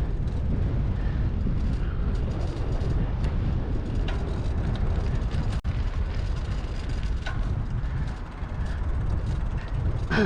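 Steady low wind rumble buffeting the microphone while riding a bicycle.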